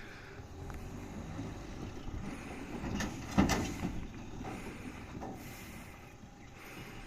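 Low rumble of a vehicle running, with one loud knock about three and a half seconds in.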